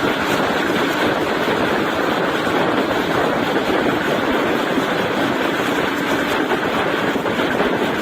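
Steady rushing noise of a passenger train running at speed, wheels on rails and wind.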